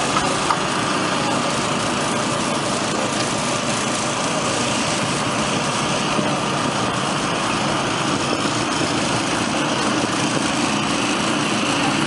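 Small engine-driven water pumps running steadily, pumping water into an AquaDam to fill it.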